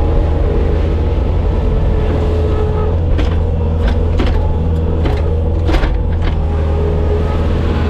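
Bobcat skid steer's diesel engine running steadily, with a series of short sharp knocks or clanks in the middle.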